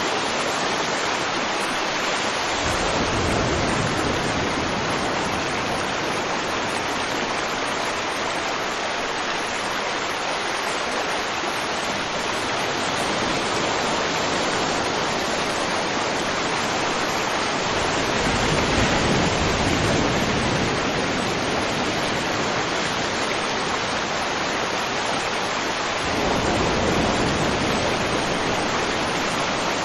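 River water flowing over rocks: a steady rush with low swells that rise and fall every several seconds.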